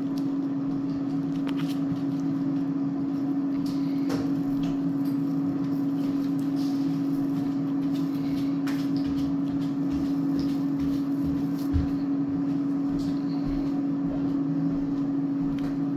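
Steady machine hum, one held tone with a lower drone beneath it, with a few faint clicks and taps.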